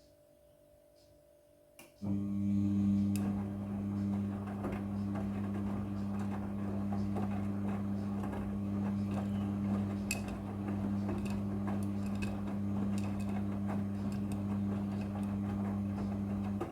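Midea front-loading washing machine starting up about two seconds in and running steadily for around fifteen seconds with a low motor hum and a clatter of small clicks, then stopping abruptly.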